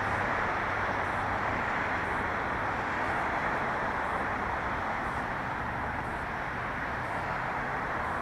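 Steady hiss and rumble of nearby road traffic, with no break or change.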